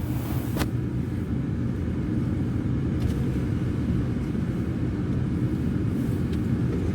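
Steady low rumble of a car running, heard from inside the cabin, with a single sharp click about half a second in.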